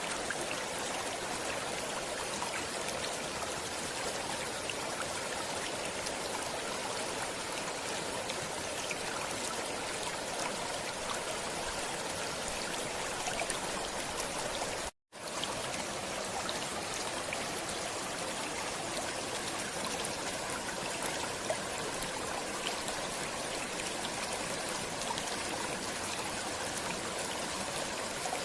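Stream water flowing steadily with an even rush and faint trickling. It drops out abruptly for a split second about halfway through, then resumes unchanged.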